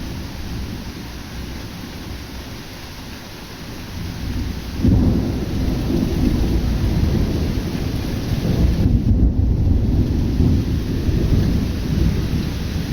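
Rain falling steadily during a thunderstorm, with a low rumble of thunder dying away at first; about five seconds in a loud peal of thunder breaks in suddenly and keeps rumbling.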